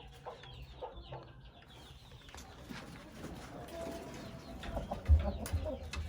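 Chickens clucking softly, with a few low thumps near the end.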